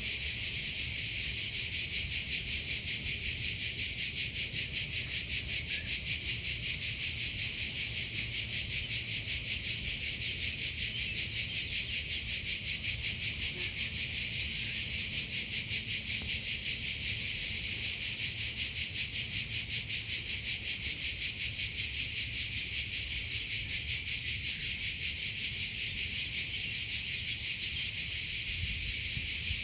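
Cricket chirping in a steady, high-pitched, fast-pulsing trill that goes on without a break.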